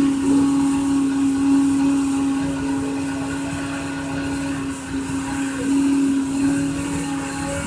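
A motor-driven machine running steadily, with a strong constant hum and a noisy rush above it.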